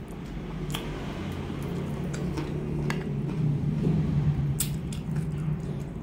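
Close-miked eating: chewing boiled chicken with wet mouth sounds and three or four sharp smacking clicks, over a steady low hum.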